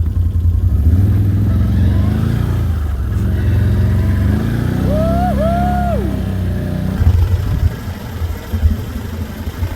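Can-Am Outlander 850 ATV's V-twin engine running under load and revving as it pushes a plow through deep snow, easing off somewhat near the end.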